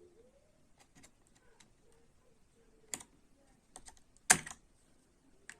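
Light plastic-and-metal clicks as a laptop RAM module is released from its memory slot, with one louder snap about four seconds in.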